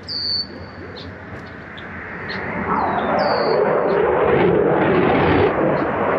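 Jet aircraft flying in low overhead: its engine noise swells in from about two and a half seconds in and stays loud. A bird's short whistled call repeats a few times above it.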